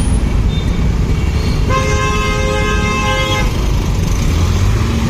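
A vehicle horn sounds one steady blast of about a second and a half, a little under two seconds in, over continuous low road-traffic noise.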